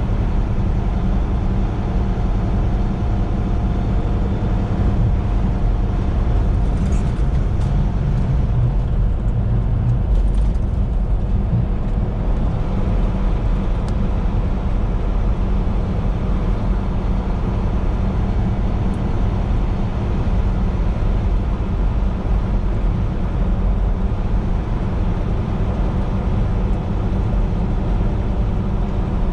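Semi-truck engine and road noise heard from inside the cab while cruising on the highway: a steady low drone.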